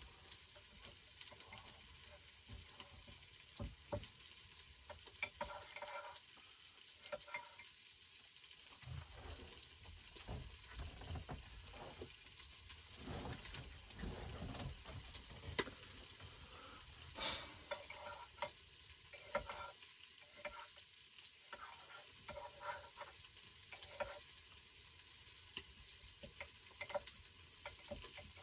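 Food sizzling steadily in a frying pan, with scattered light clicks and knocks of kitchen utensils and cookware, one knock standing out near the middle.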